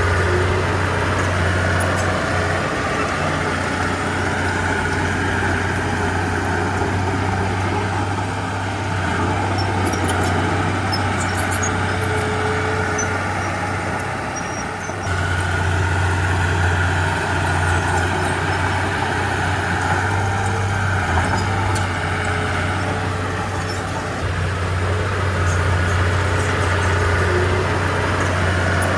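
Heavy diesel earthmoving engine running under varying load, its low drone swelling and easing several times.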